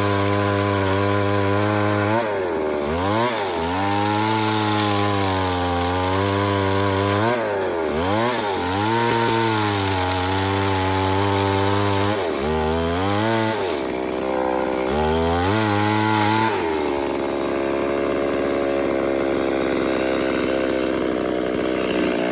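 Two-stroke chainsaw running at high revs, cutting wood. Its engine note drops sharply and climbs back about four times as the chain bogs in the cut and recovers. Near the end the note gives way to a steadier rushing noise.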